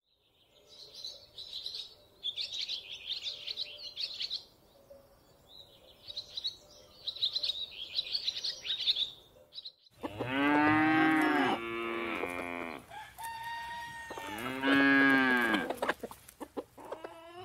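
Farmyard sound effect: high bird chirping in two bursts, then cattle mooing, several long calls in the second half.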